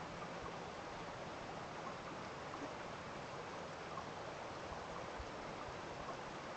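Steady rush of running water from a small stream after rain, an even hiss with no pauses.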